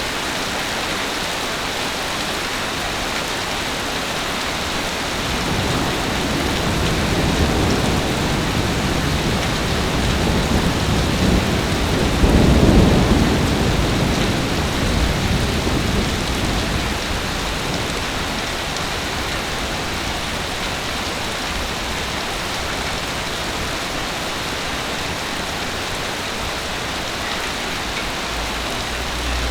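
Heavy rain falling steadily, with a low rumble of thunder that builds from about five seconds in, is loudest near the middle, and dies away.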